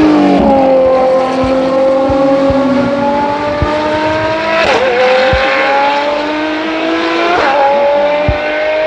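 Pagani supercar's V12 engine accelerating hard, its pitch climbing steadily and dropping sharply at two quick upshifts, about five and about seven and a half seconds in.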